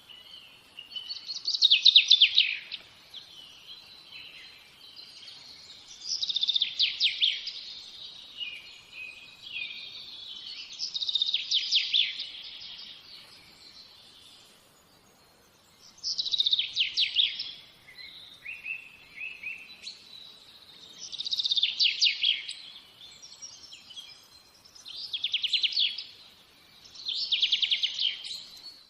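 A songbird singing the same short phrase over and over, about every four or five seconds: each phrase is a fast trill of rapid notes falling in pitch, with softer twittering between phrases.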